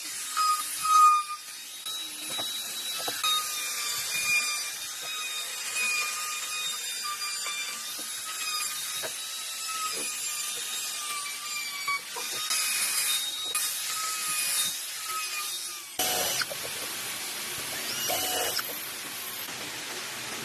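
Electric power tool running on wood with a steady high-pitched motor whine, with a few light knocks. About 16 seconds in the sound changes to a steadier hiss.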